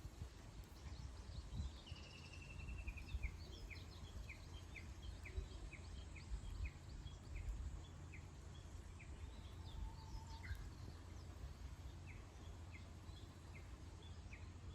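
Birds singing: a brief trill, then a run of short, high chirps repeated about twice a second, over a faint low rumble of background noise.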